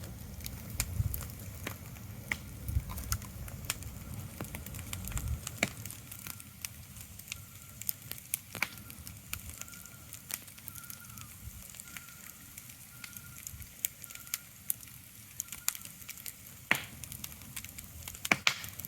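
Steady ambient crackling: irregular sharp pops and clicks over a faint hiss. A low rumble runs under it for the first five seconds, and a faint, broken high tone comes and goes in the middle.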